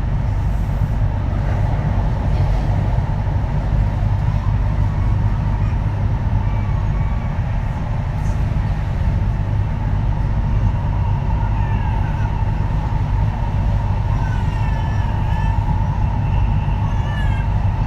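Kintetsu 3220 series train running at steady speed, heard from inside the car: a loud, continuous wheel-on-rail rumble with a steady whine. From about twelve seconds in come several short, high squeaks.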